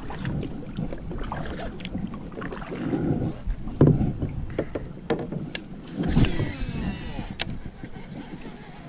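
Sounds of a fishing kayak being handled on the water: irregular knocks, thumps and water noise, with a brief squeaky scraping about six seconds in.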